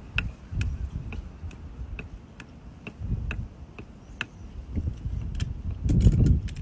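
Steady mechanical ticking, about two clicks a second, over a low rumble that swells loudest near the end.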